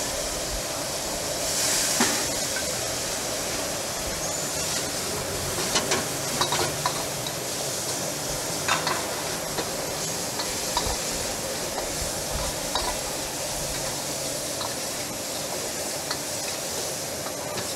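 Steady sizzle of food frying in a wok, with irregular sharp knocks of a kitchen knife striking a wooden cutting board as pork kidneys are sliced.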